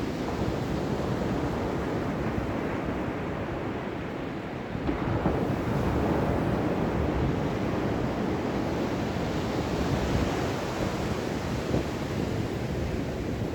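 Ocean waves washing onto a shore as a continuous rushing surf, swelling louder about five seconds in as a wave breaks.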